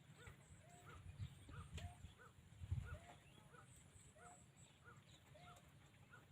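Faint animal calls: short, slightly rising notes repeated steadily about twice a second, with a few low thumps around them.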